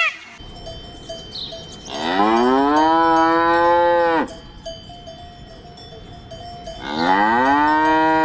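Cow mooing twice, two long calls that each rise in pitch, hold, then drop away, with a faint steady ringing tone between them.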